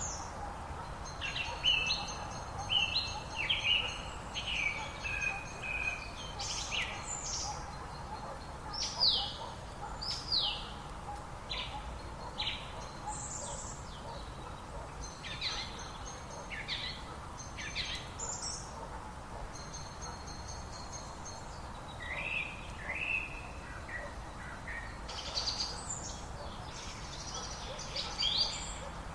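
Several birds chirping and calling, many short notes and quick downward-sweeping whistles, over the steady hiss of a flowing river.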